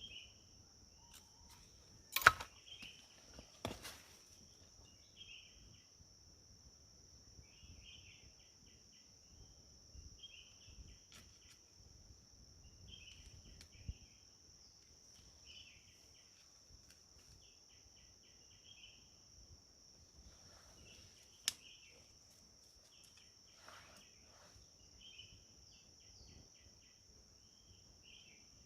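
Steady high insect drone, like crickets or cicadas, with short chirping calls recurring every second or two. A few sharp knocks cut through: a loud one about two seconds in, another a second and a half later, and one more about two-thirds of the way through.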